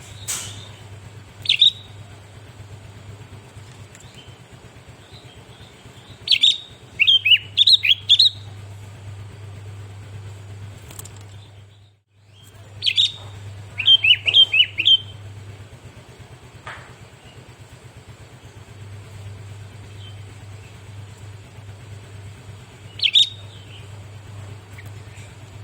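Sooty-headed bulbul (kutilang) calling in short bursts of quick chirping notes, four bursts with the longest phrases about a quarter and halfway through. A steady low hum runs underneath and cuts out briefly near the middle.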